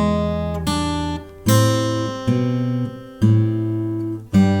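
Six-string acoustic guitar played slowly by finger: a phrase of about six single plucked notes, one roughly every second, each left to ring over held bass notes.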